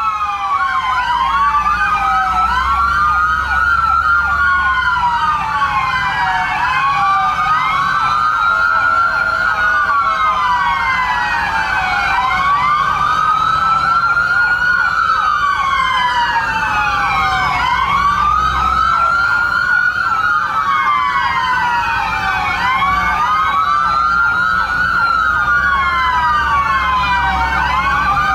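Several fire truck sirens sounding at once: slow wails rising and falling every couple of seconds overlap with a fast yelping siren, over a low engine rumble.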